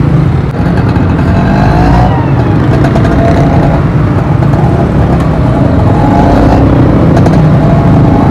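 Motorcycle running under way in city traffic, with a steady engine and road rumble heard from the rider's position.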